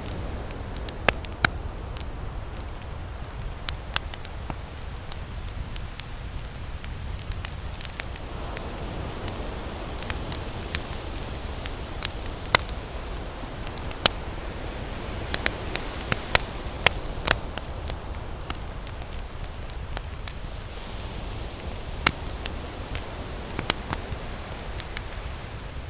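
Wood campfire crackling, with sharp, irregular pops several times a second at its busiest, over a steady low rush.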